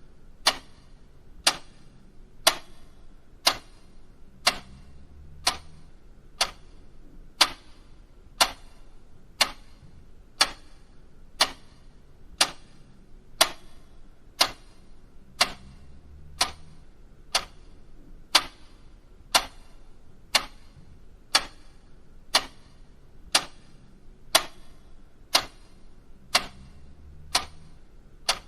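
Mechanical clock ticking steadily at about two ticks a second, the ticks alternating stronger and weaker in a tick-tock pattern.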